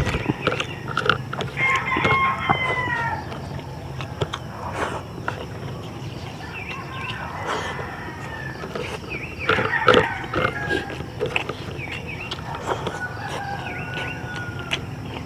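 A rooster crowing three times, each crow a long call of a second or more, with short clicks and knocks throughout; the loudest clatter comes about ten seconds in.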